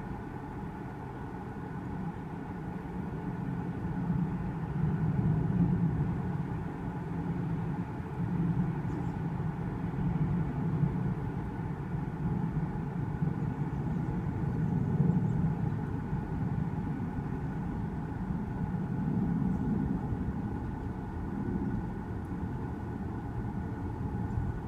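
A steady low engine rumble with a faint constant hum, like a vehicle idling, running unchanged throughout.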